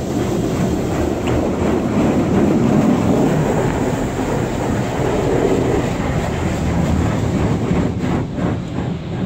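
High-pressure water jets of a D&S 5000 automatic car wash hammering the car's body and glass, heard from inside the cabin as a loud, steady rushing drum.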